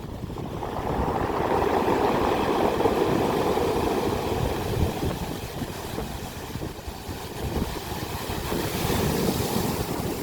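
Ocean waves breaking on the shore: rushing surf with a low rumble underneath, building about a second in and swelling again near the end.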